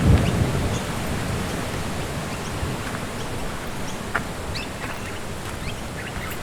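A low rumble of thunder at the start, dying away over about a second, over the steady rush of wind in the trees. A few short bird chirps.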